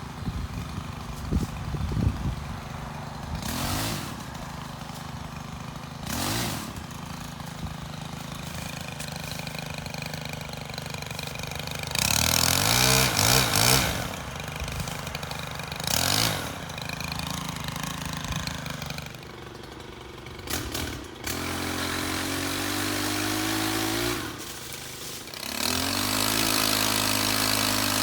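STIHL KM 131R 4-MIX gas power head with pole saw attachment idling, with short bursts of revving about halfway through.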